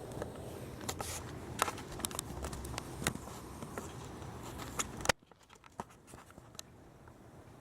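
Rain falling, a steady hiss with many sharp drips and taps landing close by. About five seconds in the hiss cuts off suddenly, leaving a few scattered drips.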